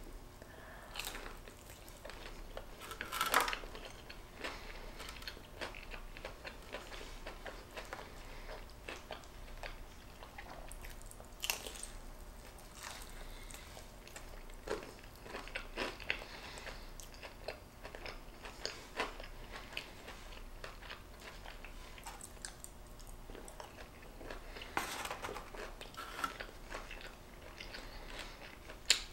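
Close-up eating sounds of a person biting and chewing a fried chicken finger and fries: soft, irregular crunching and clicking, with a few louder crunches, the loudest about three seconds in.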